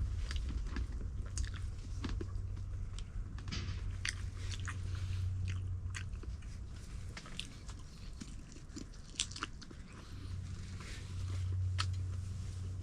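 Close-up chewing and biting while eating pork feet: irregular wet clicks and crunches, over a low steady hum.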